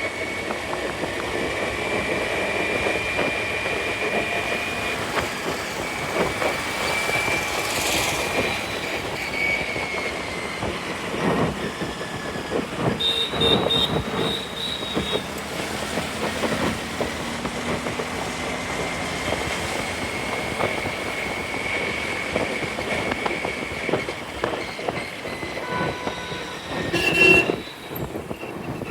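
Riding noise of a scooter moving through city traffic, with a steady high whine and a brief chirping tone about halfway through.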